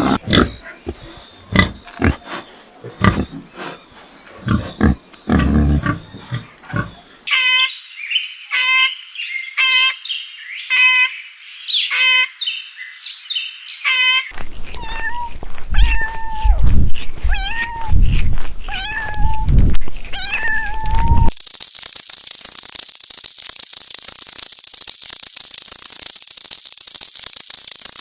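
A run of different animal sounds: scattered clicks and taps, then a series of high chirping calls about one a second, then lower calls that glide up and down over soft thumps, then a steady high hiss for the last several seconds.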